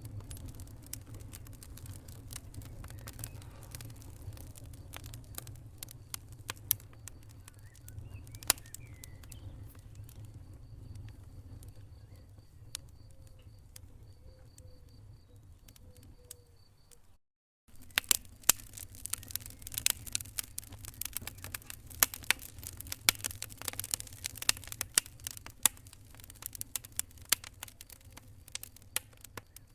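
Wood fire burning in a fireplace, crackling and popping over a low rumble. It cuts out for half a second just past the middle, then comes back with denser, louder pops.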